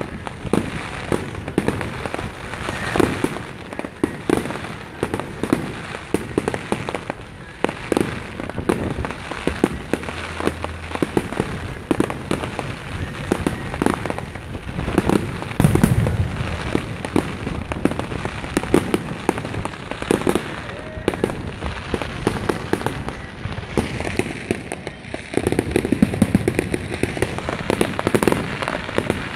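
Fireworks going off in a rapid, unbroken barrage of bangs and crackles. The heaviest clusters come about halfway through, with one deep boom, and again near the end.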